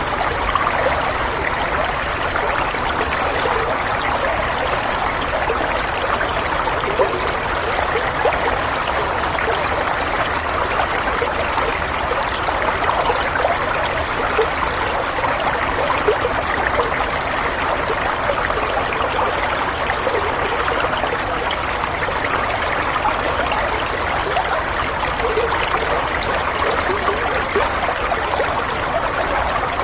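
Flowing water: a stream running and trickling steadily with small irregular splashes, used as soothing white noise.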